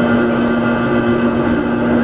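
Hakone Tozan Railway Moha 1 electric car running, its nose-suspended SE121-A traction motors and gears giving a steady hum at a constant pitch, over wheel and rail noise.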